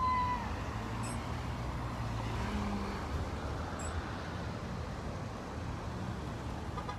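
Road traffic: cars and trucks passing, a steady low engine and tyre rumble.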